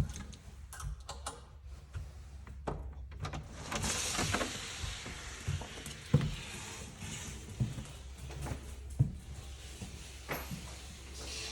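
Scattered knocks and clicks with a few seconds of rustling in the middle, the loudest knocks about six and nine seconds in: handling noise around a door on coming indoors.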